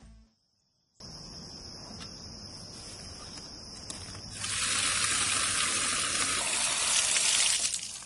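Outdoor garden ambience: a steady high insect trill, joined about four and a half seconds in by a louder steady hiss of rushing water.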